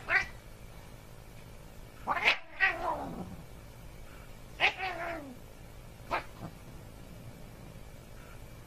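Domestic tabby cat meowing: about four drawn-out calls roughly two seconds apart, the middle two long and sliding down in pitch, the last one short.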